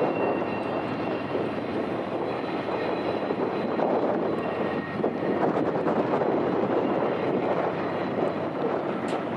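Double-stack intermodal container cars rolling by on the rails: a steady rumble of wheels on track.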